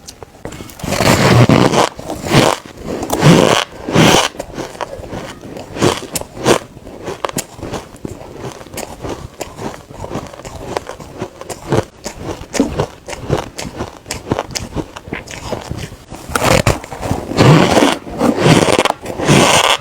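Close-up crunching of refrozen soft ice, giving a sandy crunch. Several loud bites come near the start and again near the end, with quieter chewing crunches between them.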